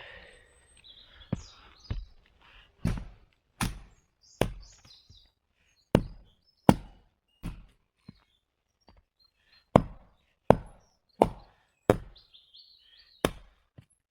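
Wood being chopped: about a dozen sharp blows, coming in runs roughly three-quarters of a second apart. Faint bird chirps sound between the blows.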